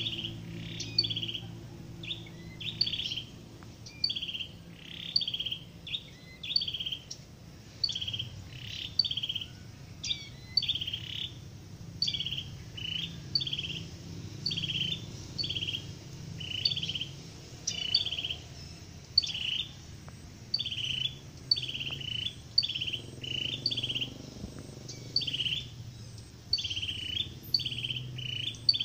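A small songbird's short call repeated about once a second in a regular series, each a sharp high note followed by a buzzy chirp.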